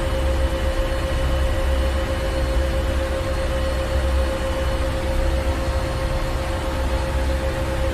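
Ship engine room running: a steady low rumble from the engines under an even mechanical hiss, with a constant humming tone held throughout.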